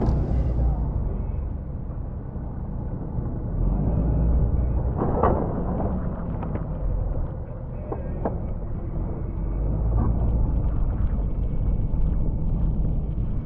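Plow truck's engine running with a steady low rumble while plowing snow, with a few sharp knocks about five, eight and ten seconds in.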